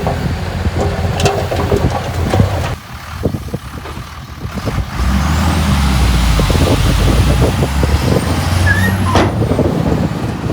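Heavy diesel earthmoving machinery running, with scattered clanks and knocks. The engine drops back for a couple of seconds, then comes up louder and heavier about five seconds in, with a faint high whine rising and falling over it.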